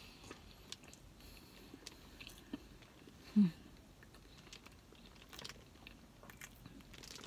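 Close-mouthed chewing of a mouthful of burrito coated in crushed Flamin' Hot Cheetos, with scattered small crunches and mouth clicks. A brief low hum, falling in pitch, about three and a half seconds in.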